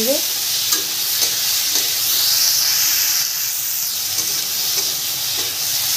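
Fried eggplant pieces and onion masala sizzling in a kadai while a spatula stirs them, with a few light scrapes of the spatula against the pan. The sizzle swells a little in the middle.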